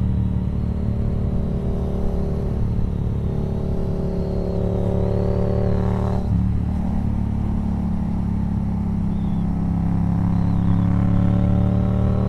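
Yamaha FZ-07's parallel-twin engine pulling under acceleration, its pitch rising, then a gear change about six seconds in, after which it pulls and rises again near the end.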